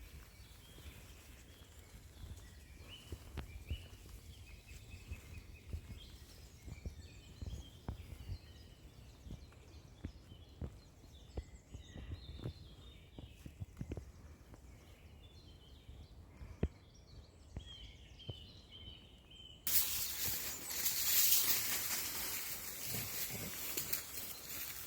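Birds singing in woodland, with soft thumps and clicks of footsteps. About twenty seconds in, loud rustling and crackling noise starts suddenly and stays.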